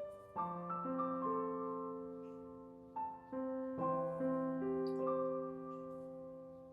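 Soft, slow solo piano music: gentle chords and single notes that ring and fade, with new notes struck every second or so.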